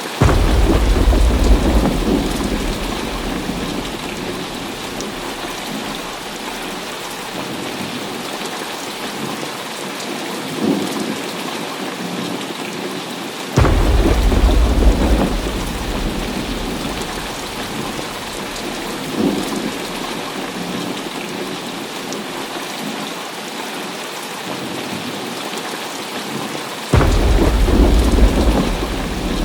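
Heavy rain falling steadily through a thunderstorm. Three sudden thunderclaps, one near the start, one about halfway and one near the end, each rumble off over a couple of seconds, with two fainter rumbles in between.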